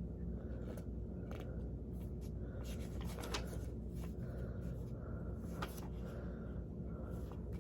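Steady low hum of room tone with faint, scattered clicks and light rustles, as of small handling noises.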